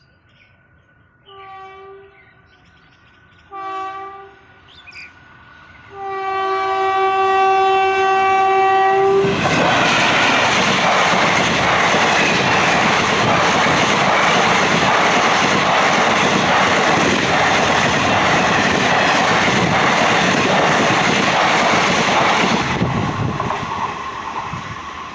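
WAP4 electric locomotive horn sounding two short blasts and then a longer one. The Intercity Express then passes at speed in a loud, steady rush of wheels on rails for about fourteen seconds before fading.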